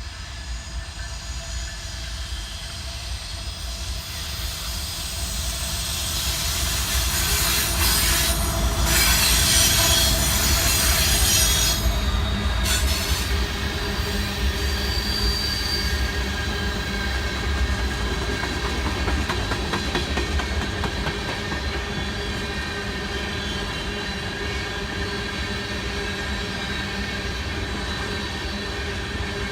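Norfolk Southern train rolling past with its steel wheels squealing in several high, steady tones over a low rumble. The squeal is loudest about a third of the way in and then eases off.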